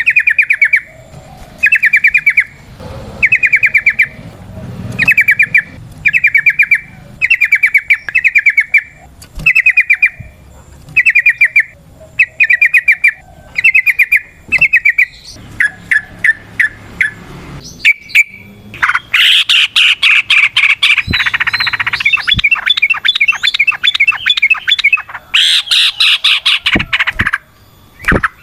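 Yellow-vented bulbul (trucukan) calling: short, rapid trills repeat about once a second for the first half. From about two-thirds of the way in they give way to a long, continuous rattling chatter, the "ropel panjang" song that keepers use to set captive birds singing.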